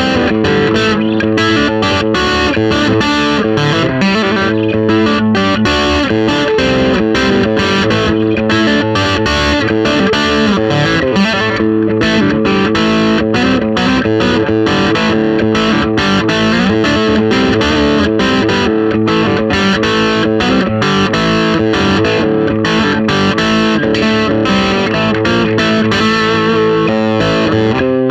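Gibson Custom Shop 1968 Les Paul Custom Authentic electric guitar played with distortion through a Marshall amp, a continuous run of notes and chords.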